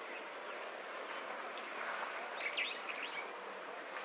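A few short, high bird chirps in the second half, over a steady outdoor background hiss.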